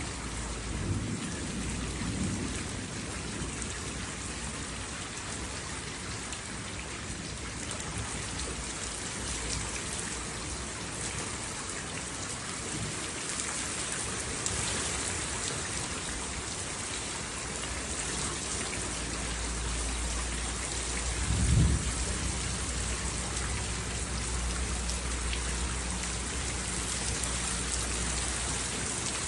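Steady heavy rain falling on surfaces, with thunder rumbling low in the background. A louder roll of thunder swells and fades about two-thirds of the way through.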